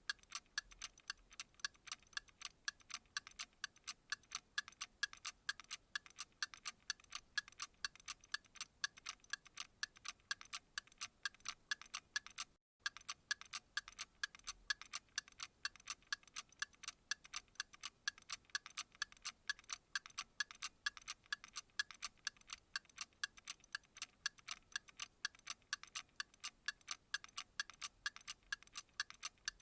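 A clock ticking with a fast, even tick. There is a momentary silent break a little under halfway through.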